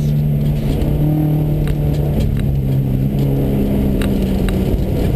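Subaru rally car's flat-four engine heard from inside the cabin, accelerating hard, its pitch climbing and then stepping down at gear changes about two and three seconds in, over steady road noise with a few sharp ticks.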